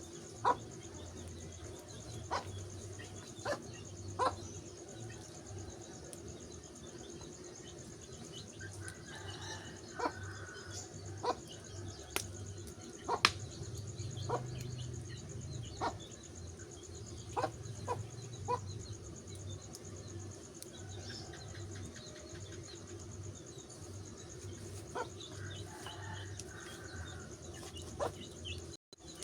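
Wood fire crackling, with sharp single pops every second or two over a steady low background hum.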